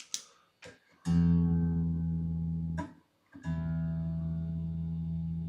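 Squier Jagmaster electric guitar string plucked and left to ring twice, each note held steady for about two seconds, the first cut off before the second is picked. It is the same string being compared against a tuner while the intonation is set, the note still a little sharp. A few small clicks come just before the first note.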